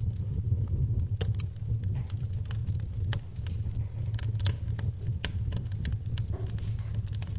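Wood fire crackling in a fireplace: irregular sharp pops and snaps, several a second, over a steady low rumble, with rain in the background.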